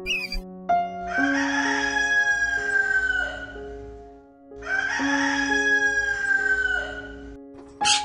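A rooster crowing twice, each crow long and falling slowly in pitch, over background music.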